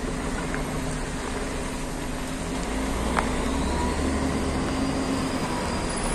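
Engines of stopped vehicles idling in a traffic queue, a steady low rumble, with a single short click a little over three seconds in.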